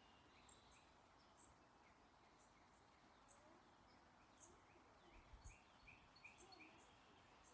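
Faint birdsong: small birds chirping and calling on and off over a soft steady outdoor hiss, with a quick run of repeated chirps from about five seconds in. A brief low rumble, like a gust on the microphone, comes about five and a half seconds in.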